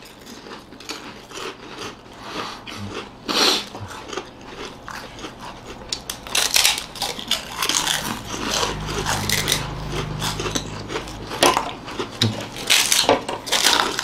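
Several people biting into and chewing crisp, hollow fried finger chips, with irregular crunches throughout.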